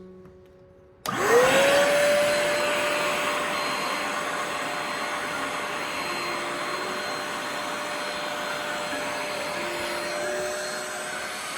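Hoover Spotless portable spot cleaner's suction motor switching on about a second in: a whine that rises quickly and settles to one steady pitch, then runs on with a steady rush of suction.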